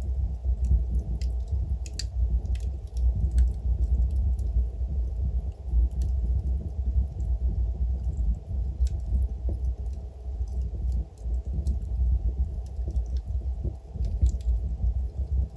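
Wood fire in a fireplace crackling, with irregular sharp pops over a steady low rumble of burning logs. The pops come more often in the first few seconds.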